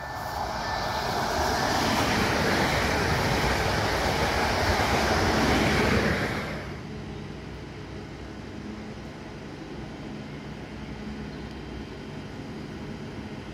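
Electric multiple unit passing close by at speed: a loud rush of wheel and rail noise that dies away about six and a half seconds in, leaving a quieter steady rumble.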